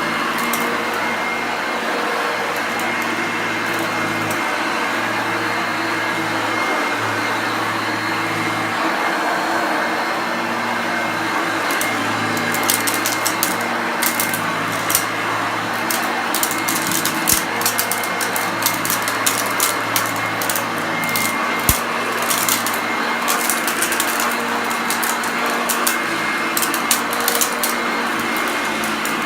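Hoover Junior upright vacuum cleaner running steadily, its motor giving a constant hum with a high whine. From about twelve seconds in, rapid crackling clicks join it as small debris is sucked up.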